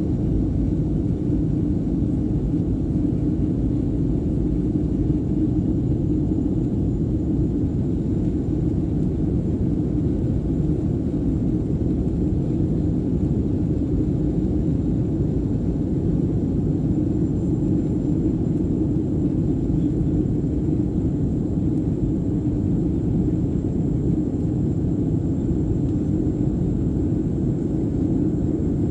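Airliner taking off and climbing, its engines and airflow making a steady low rumble, with a faint steady high whine over it.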